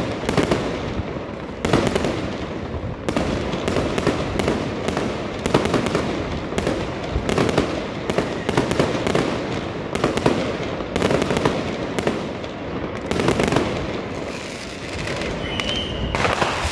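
Aerial fireworks display going off in a rapid barrage: an uneven string of sharp bangs, about two or three a second, over a continuous rumble.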